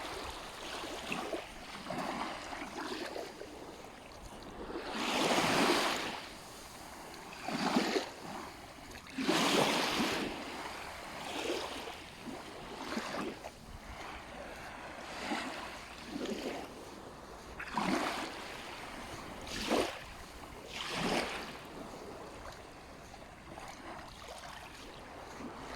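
Small sea waves washing up on a sandy beach, breaking in irregular swells every second or two, with two bigger washes about five and nine seconds in.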